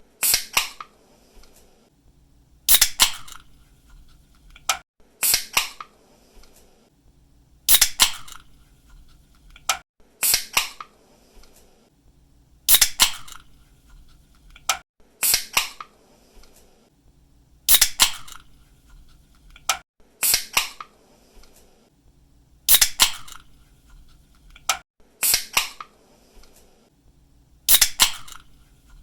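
Aluminium drink can being opened over and over: each time a click as the pull tab lifts, then the crack of the seal and a short hiss of escaping gas, about once every two and a half seconds.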